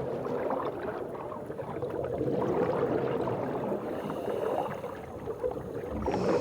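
Water churning and bubbling in a steady rush, with many small irregular clicks and pops.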